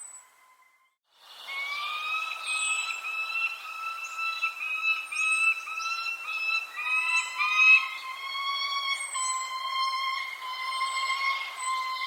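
Small birds chirping in short, high notes over a loud, steady whistle-like tone with overtones that holds for about ten seconds and drops slightly in pitch partway through. The sound cuts out for about a second at the start.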